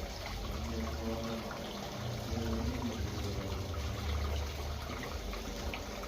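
Water running and trickling steadily over a low hum.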